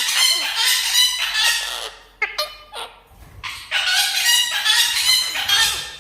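Red-breasted parakeet giving loud, harsh screeching calls in two long bouts, with a few short sharp calls in the gap between them.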